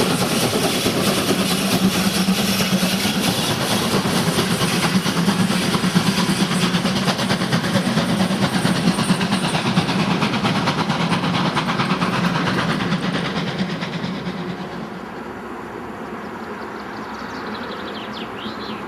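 Train passing close, loud and steady with a rapid rattle, then fading away about three-quarters of the way through as it moves off.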